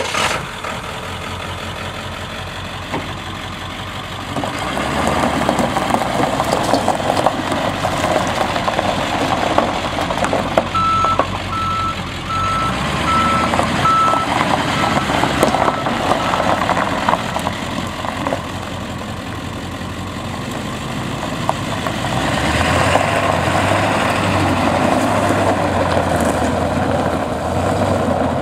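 Ford F-350 diesel engine running just after start-up, growing louder for two long stretches. A reversing beeper sounds about twice a second for several seconds near the middle, fading toward the end.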